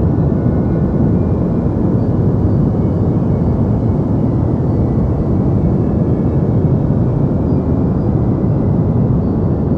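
Steady deep white noise: an even, unchanging hiss with most of its weight in the low end and little treble.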